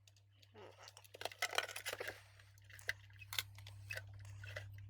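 Small clicks, taps and scraping as a replacement fuse's wire leads are bent and fitted into a circuit board, busiest in the first two seconds. A steady low hum runs underneath.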